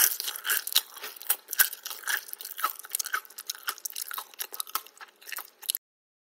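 Crunchy chewing of a crisp food: a dense, irregular run of sharp crackles that cuts off suddenly near the end.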